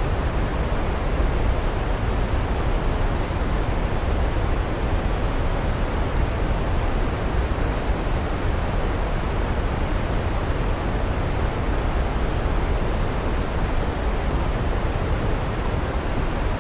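Waterfall rushing steadily, an even unbroken noise heaviest in the deep low end.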